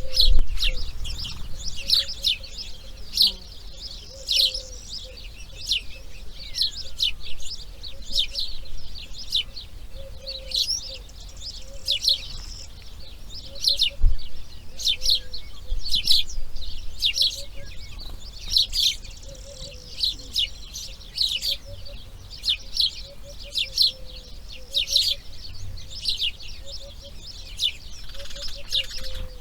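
Birds chirping: short high calls repeating about twice a second, over a faint low rumble.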